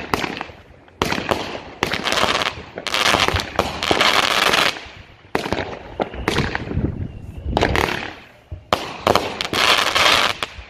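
Black Cat 'Game On' 200-gram firework cake firing its shots in quick succession, each a sharp report. Several are followed by a second or more of dense delayed crackle.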